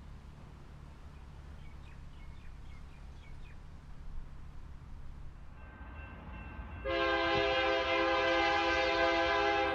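A Melbourne suburban electric train approaching with a low rumble that slowly grows louder, then sounding one long, loud horn blast about seven seconds in that lasts about three seconds.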